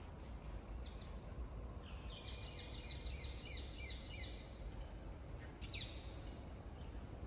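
A bird singing a quick run of high repeated chirps, about four a second, then a single louder falling call a little later, over a low steady background rumble.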